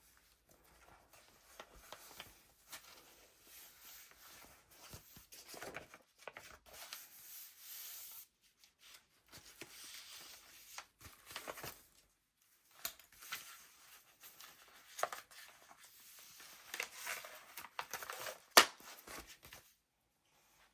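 Pages of a handmade paper junk journal being turned and handled: paper rustling and crinkling in irregular bursts with small clicks, and one sharp tap a couple of seconds before the end, the loudest sound.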